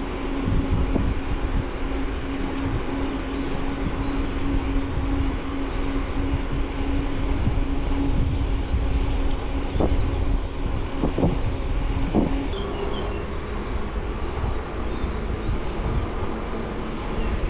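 Wind buffeting the microphone and tyre rumble from a bicycle ride, with a few small knocks from bumps. A steady whine runs underneath and steps up to a higher pitch about two-thirds of the way through.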